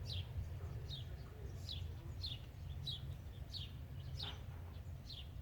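A songbird calling over and over: short, high notes that slide downward, about one every three-quarters of a second, over a low steady rumble.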